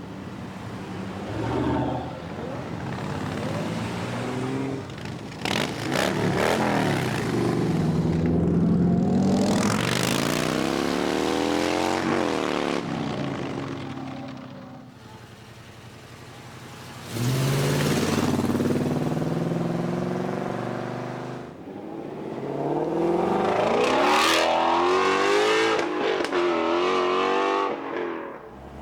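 Several muscle cars accelerating hard away one after another, engines revving up and down through loud exhausts. One passes close about twelve seconds in, its pitch sweeping down as it goes by. Another starts suddenly and loudly near seventeen seconds in.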